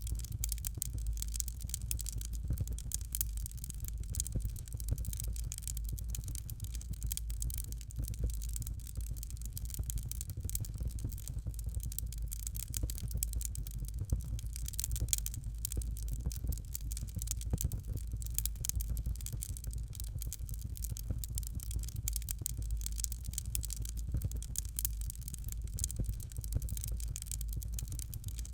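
Fireplace fire crackling: a dense, continuous run of small sharp crackles and pops over a steady low rumble.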